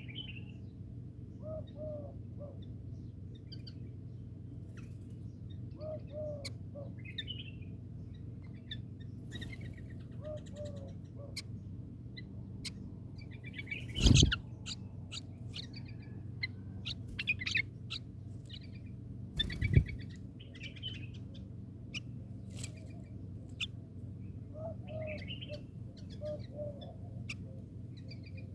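Small birds chirping in short, scattered calls over a steady low hum, with scattered light clicks. Two loud sharp knocks come about 14 and 19.5 seconds in.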